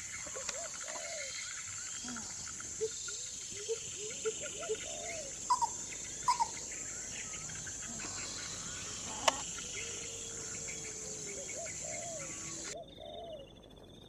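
A steady high-pitched insect drone with many short bird chirps over it and a few sharp clicks. The insect sound cuts off abruptly near the end.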